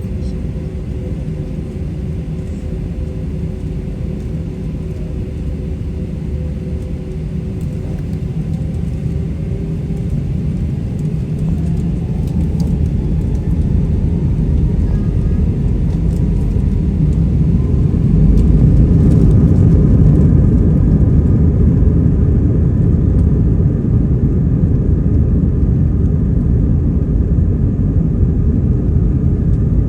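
Airbus A320-200 jet engines spooling up for the takeoff roll: a steady low rumble that grows louder, with faint tones rising in pitch as thrust builds, loudest about eighteen seconds in.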